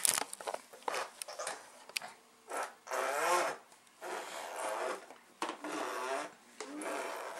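An almost nine-month-old baby blowing wet, buzzing raspberries through his lips with his voice, in imitation of a tractor engine. The buzzing comes in several bursts of about a second each, starting a couple of seconds in.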